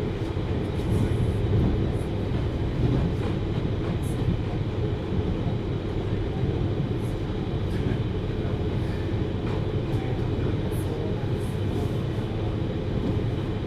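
JR 733-series electric train running, heard as a steady low rumble with a few faint ticks.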